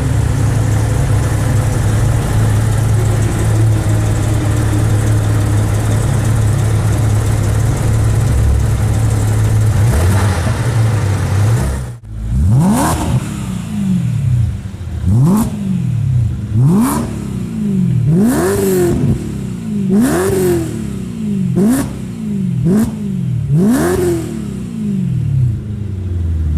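BMW M3 E92's V8 running through an Akrapovic exhaust: a steady, loud idle for about twelve seconds, then, after an abrupt break, a string of quick throttle blips, each rising sharply in pitch and falling back, about one every second and a half, before it settles back to idle near the end.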